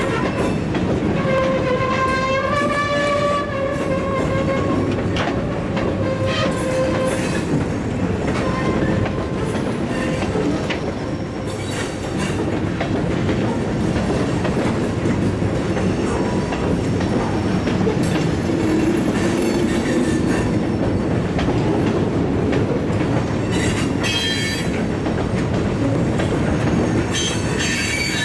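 Covered hopper cars of a long freight train rolling past with steady wheel-on-rail noise. A wheel squeal wavers in pitch for the first several seconds, and higher squeals come again twice near the end.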